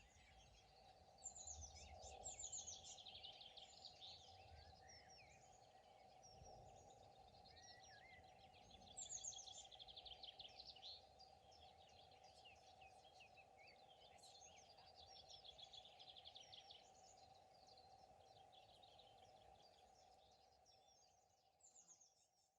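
Faint mixed songbird chorus, several birds trilling and chirping over one another, with a steady low drone underneath; it fades out near the end.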